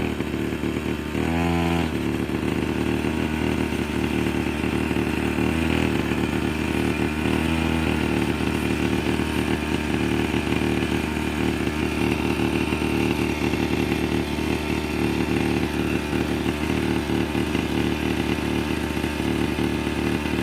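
Engine of a 49cc children's quad bike running steadily at low revs under gentle throttle, its pitch briefly shifting a few times in the first eight seconds. The engine is brand new and being broken in slowly.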